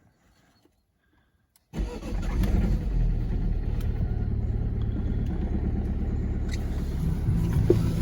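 Citroën C4 1.6 HDi four-cylinder turbodiesel cold-starting: near silence, then about two seconds in the engine fires at once and settles into a steady idle.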